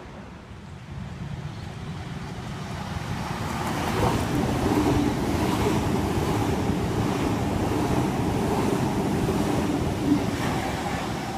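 Eight-car Tangara electric train passing through the station without stopping: a rush of wheels on rails that builds over about four seconds and then holds steady, with a faint hum under it.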